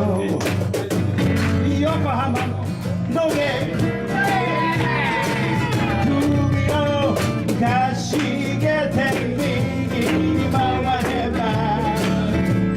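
A live band playing a bluesy song on guitars, bass and percussion, with a melodic line bending up and down over a steady bass.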